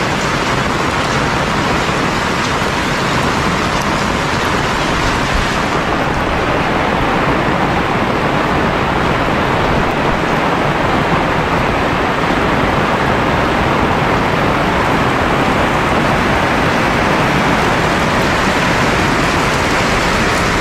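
Heavy rain falling: a loud, steady, dense hiss of downpour that dulls a little at the top about six seconds in.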